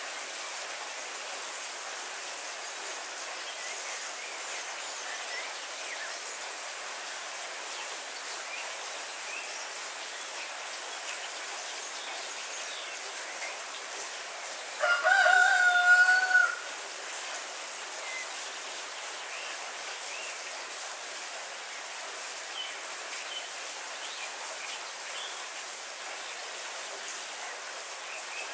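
Steady heavy rain, with a rooster crowing once about halfway through, the loudest sound.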